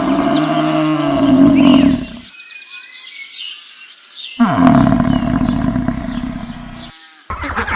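A large animal's roaring call, twice: a long, low call ending about two seconds in, and another starting about four and a half seconds in. Birds chirp faintly behind them.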